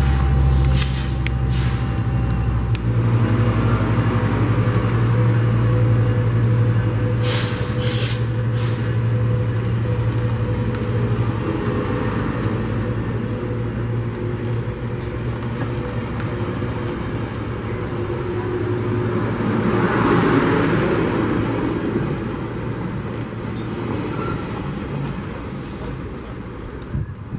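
Metrolink diesel push-pull commuter train of bilevel cars passing along the platform and pulling away. A deep, steady engine drone dominates the first half and then eases as the cars roll by, with short sharp air hisses about a second in and again around seven to eight seconds. A thin high whine comes in near the end as the train recedes.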